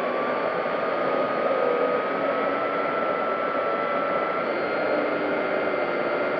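Electric motor and propeller of an FMS P-40B Warhawk 1400mm RC plane in flight, a steady whine whose pitch edges up slightly over the first few seconds, over rushing wind noise, as picked up by a camera mounted on the plane.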